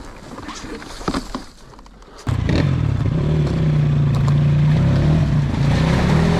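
A few light knocks and scrapes, then an enduro motorcycle's engine suddenly comes in about two seconds in and runs at a steady speed.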